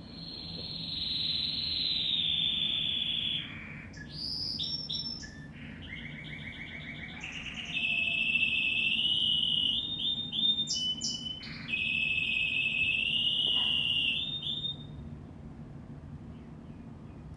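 A bird singing: long drawn-out high whistles, each held two to three seconds and sliding slightly down in pitch, broken up by quick stuttering trills and clicks. The song stops about fifteen seconds in.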